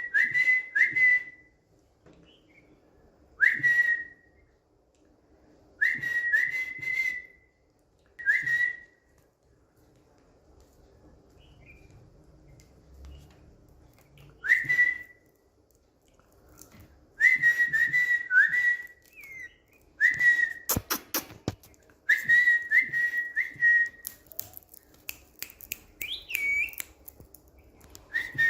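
Indian ringneck parakeet whistling: short bursts of one to four quick rising whistled notes, repeated every few seconds with pauses between.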